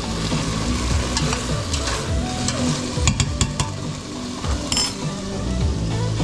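Food frying and sizzling in a pan while being stirred, the utensil clicking against the pan several times a little past halfway.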